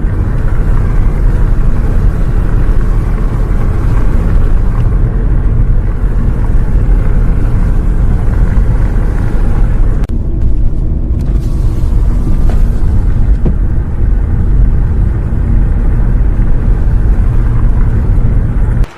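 Steady low rumble of a bus under way, engine and road noise as heard inside the bus, with a brief thinning of the higher hiss about halfway through. It cuts off suddenly near the end.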